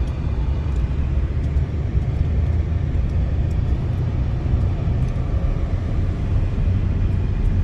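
Steady low rumble of a vehicle driving, with road and engine noise and a few faint clicks.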